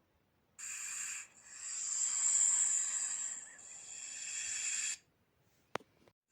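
Snake hissing: a short hiss, then a long hiss of about three and a half seconds that swells and fades. A single sharp click near the end.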